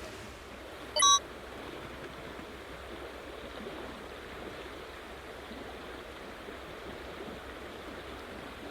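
Steady rushing noise, like rain or running water, with one short, loud, bright ding about a second in.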